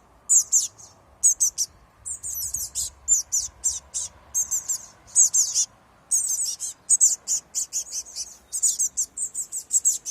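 Fledgling blue tits, just out of the nest box, calling with rapid, high-pitched chirps in quick bursts.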